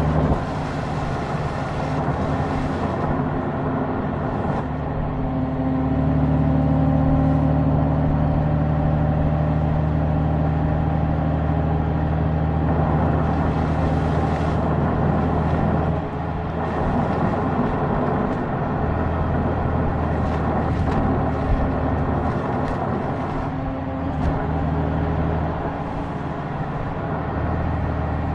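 Honda Gold Wing's flat-six engine running on the move, a steady engine note under wind and road noise; the engine note changes briefly about halfway through and again near the end.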